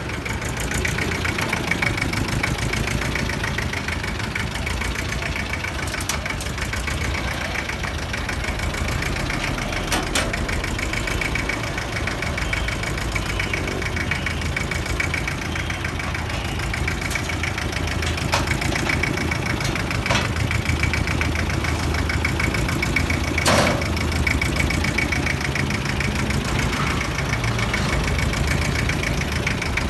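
Iseki TS1610 compact tractor's diesel engine idling steadily, with a few brief sharp knocks over it.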